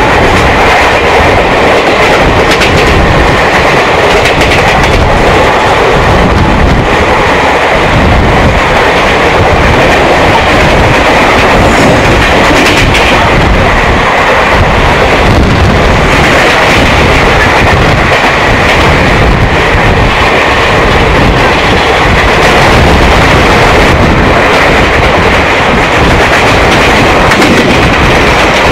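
Indian Railways passenger train running at speed alongside another train, heard from an open coach doorway: a loud, even rumble of steel wheels on rail with clickety-clack over the rail joints.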